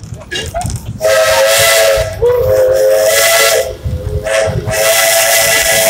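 Steam locomotive's Port Huron three-chime whistle blowing two long blasts, several steady notes sounding together over a hiss of escaping steam, the first starting about a second in and the second near the end.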